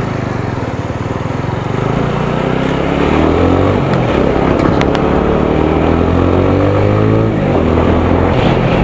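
Single-cylinder 200 cc motorcycle engine under way, pulling harder from about three seconds in with its revs climbing, then dropping sharply near the end.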